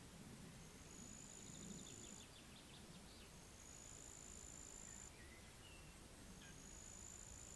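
Faint pond-side nature ambience. A high, thin, steady trill comes back about every two and a half seconds, a short rapid rattling bird call sounds about two seconds in, and a few brief chirps are heard, all over a low rumble of wind.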